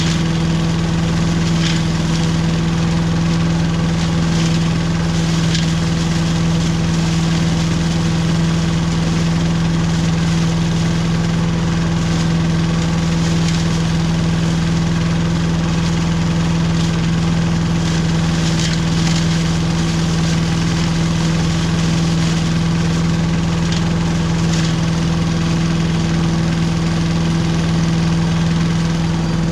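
Billy Goat Estate leaf vacuum's gas engine running steadily at constant speed, with a few faint ticks of debris over the hum.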